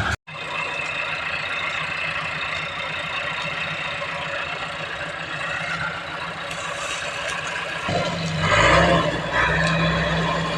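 A tractor engine running. About eight seconds in, it grows louder and its pitch rises briefly as it revs.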